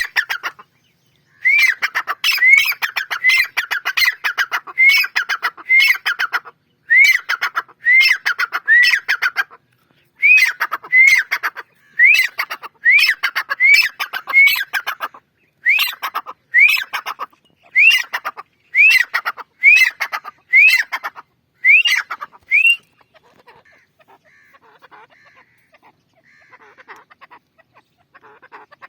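A francolin (tetar) calling loudly and repeatedly: a series of harsh, grating calls, each rising then falling in pitch, at about one call per second. The calling stops about three-quarters of the way through, leaving only faint scattered sounds.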